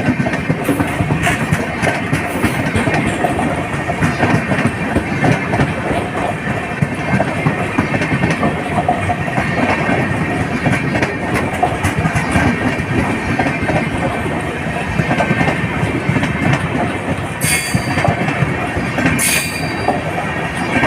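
A train running on the track, its wheels clattering steadily over the rails, with two brief high-pitched bursts near the end.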